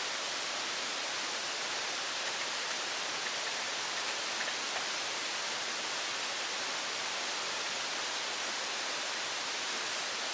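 Steady, even hiss of water, with a few faint ticks.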